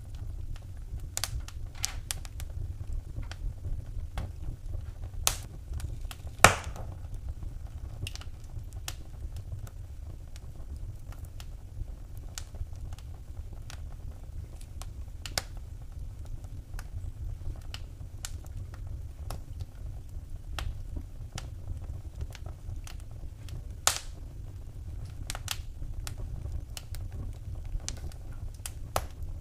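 Wood fire crackling in a fireplace: scattered sharp pops and snaps over a low steady rumble, with one loud pop about six seconds in and another well past the middle.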